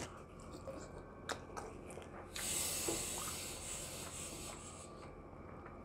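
A man chewing a mouthful of rice ball, faint, with small mouth clicks and a soft hiss of about two seconds in the middle.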